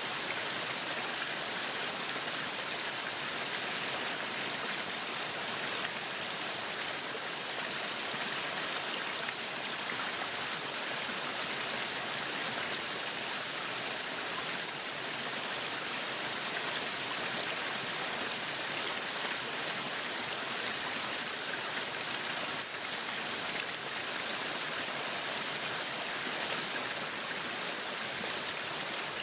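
Meat sizzling on a yakiniku grill: a steady, even sizzle.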